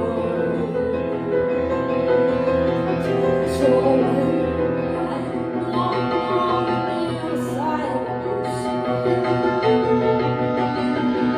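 Solo piano improvisation: sustained chords under a running melody, played continuously.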